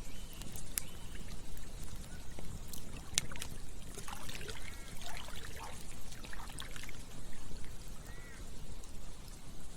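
Campfire crackling with scattered sharp pops over a steady low rumble, while a stream trickles and gurgles, its bubbling clustered around the middle.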